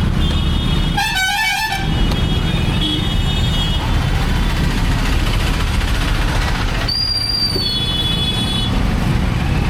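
Steady rumble of a motorbike riding through town traffic, with wind on the microphone, while other vehicles honk: a warbling musical horn about a second in and shorter high horn beeps near three seconds and again near eight seconds.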